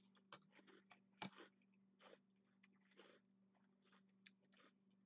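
Soft chewing and mouth sounds of a man eating from a bowl with a spoon, with one sharp click a little over a second in. A faint steady hum sits underneath.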